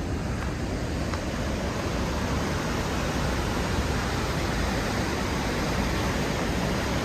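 Steady rush of the Godafoss waterfall, falling water making an even, unbroken noise.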